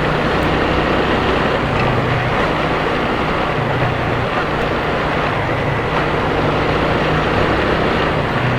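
Motorcycle engine running steadily with road noise while riding: a constant low hum under an even rush. It is picked up by a helmet camera's external microphone covered with a fur windscreen (dead cat).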